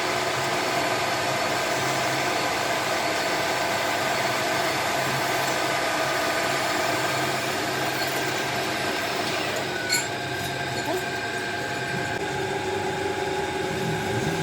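A metalworking machine tool running steadily, a motor hum with several steady tones over a noisy cutting sound, with a single click about ten seconds in.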